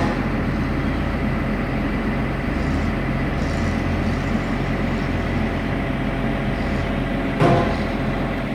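Forestry machine's engine running steadily, with a thin high whine over the low engine hum. There is a brief clunk about seven and a half seconds in.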